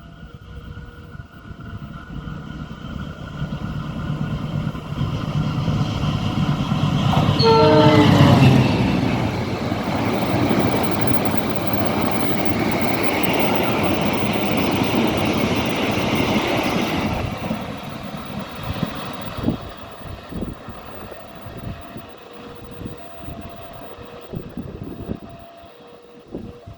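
Diesel-hauled Argo Semeru express train approaching and passing a level crossing. The locomotive sounds a short horn blast about eight seconds in, then the coaches rush past with rail noise for several seconds before it fades away. The crossing's warning alarm, two alternating tones, is heard before the train arrives and again after it has gone.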